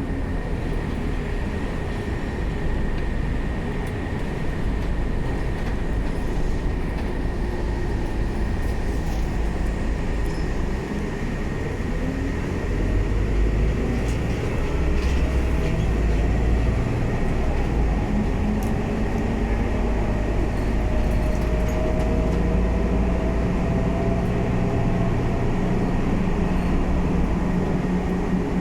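Scania K320UA bus running with a constant low rumble. The engine note rises and grows louder about twelve seconds in, then holds steady.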